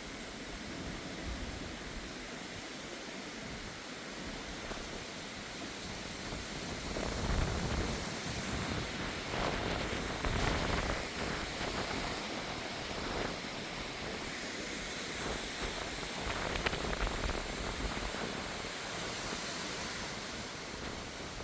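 Gusty wind of an arriving thunderstorm: a steady rushing hiss that swells in stronger gusts about a third of the way in, around the middle, and again about three quarters through.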